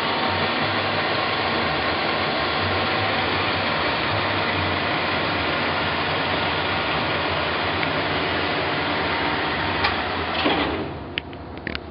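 Mori Seiki MS1250 engine lathe running under power with a steady mechanical whir. About ten and a half seconds in it winds down, with a few sharp clicks and clunks near the end.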